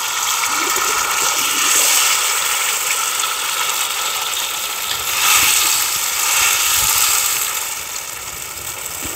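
Battered sea bass fillet sizzling in hot oil in a frying pan, a steady hiss just after the fish goes in.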